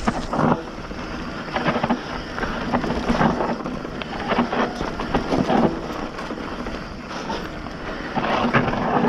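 Hardtail mountain bike riding fast down a dry, dusty dirt trail: tyres crunching and skidding over loose dirt and rocks, with the frame and chain rattling at irregular knocks, and wind buffeting the microphone.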